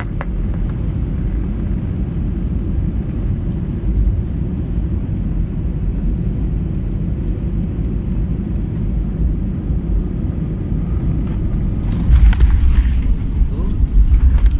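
Steady low rumble of airliner cabin noise, engines and airflow heard from inside the passenger cabin, swelling louder about twelve seconds in.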